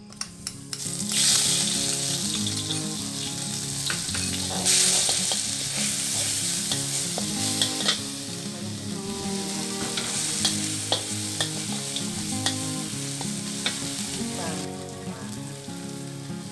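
Pounded chili and garlic paste sizzling as it hits hot oil in a large aluminium wok and is stir-fried. A metal spatula clicks and scrapes against the pan. The sizzle starts about a second in and dies down near the end.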